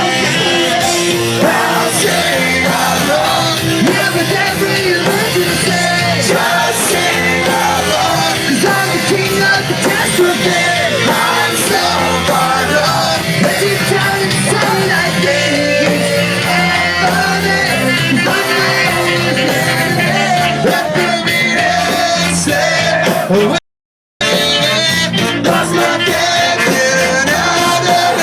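Live ska-punk band playing a loud, fast song with a singer. The sound drops out completely for about half a second about three quarters of the way through.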